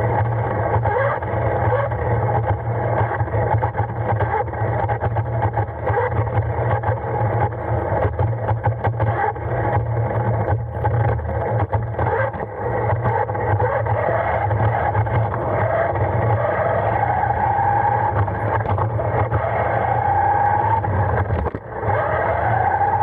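Radio-controlled car's motor whining as it drives, its pitch rising several times as it speeds up in the second half. Under the whine, the wheels and chassis make a constant rattle and rumble over the road.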